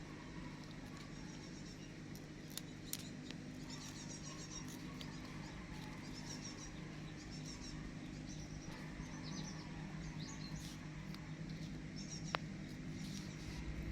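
High-pitched animal chirps in short, quick clusters, repeating throughout over a steady low hum.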